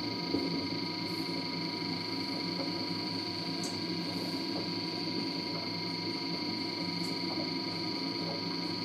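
LG DirectDrive washer dryer running its final cool-down stage after a sensor dry: the drum tumbles a load of towels with the fan running, a steady hum with a faint constant high tone. Two soft knocks come right at the start.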